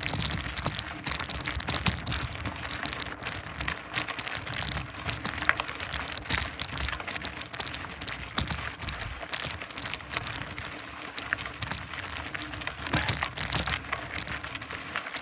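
Mountain bike tyres rolling slowly uphill over a loose dirt and gravel trail, giving a steady crackle of many small crunches and clicks.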